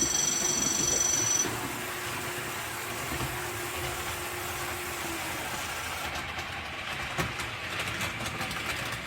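HO-scale model train running along the layout track: steady motor hum and wheel noise on the rails. A high whine stops about a second and a half in.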